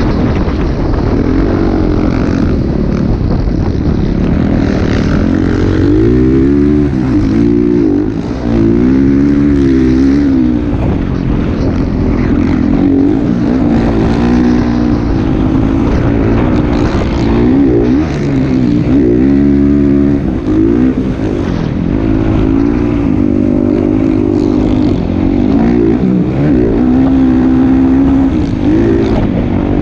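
Motocross dirt bike engine running hard, its pitch rising and falling again and again as the throttle opens and closes.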